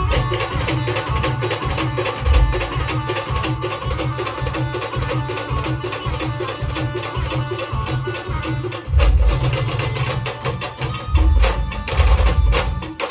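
Live band music of the Maharashtrian pavri style: a wind-instrument melody over fast, steady drumming. The heavy bass drum drops back for a few seconds in the middle and comes in strongly again about nine seconds in.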